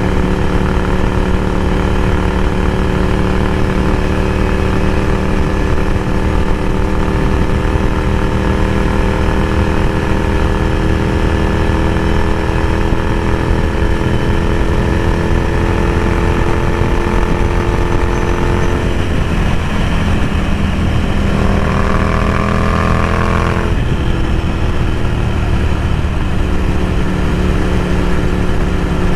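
Ducati Scrambler Café Racer's air-cooled 803 cc L-twin running through a Vance & Hines slip-on exhaust while riding, its pitch sinking slowly. About two-thirds in it dips briefly, then rises as the bike accelerates, and settles to a steady cruise, over a low rush of riding wind.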